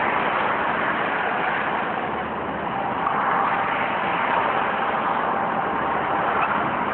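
Steady hiss of vehicles and tyres on a rain-soaked road, starting abruptly and holding even throughout.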